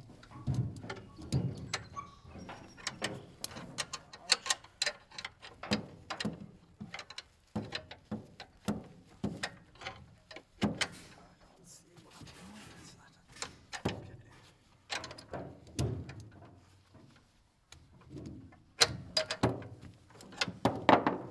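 Ratchet tie-down straps being undone: irregular clicking of the ratchet mechanisms, with metal clanks and knocks.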